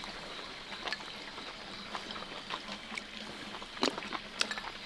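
Eating sounds at a meal table: a few light clicks and clinks of chopsticks against bowls, the sharpest couple about four seconds in, over a steady faint hiss.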